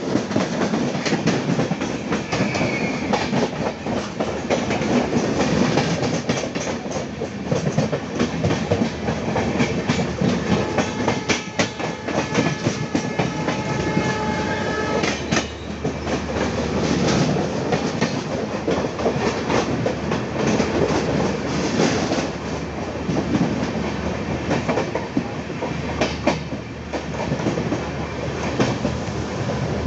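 Passenger train running, its wheels clattering over the rail joints in a steady rush of noise with many sharp clicks. A held tone of several notes sounds for a few seconds about halfway through.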